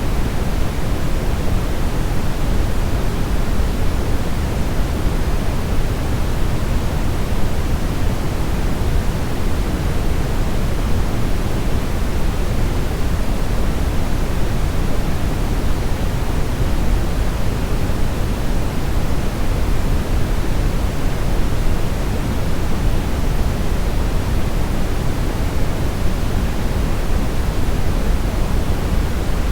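Steady brown noise: an even, deep rushing hiss, strongest in the bass and fading toward the treble, with no change.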